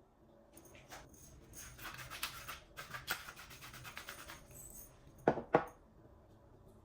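Food-preparation handling sounds: a few seconds of light rustling and small clicks, then two sharp knocks in quick succession.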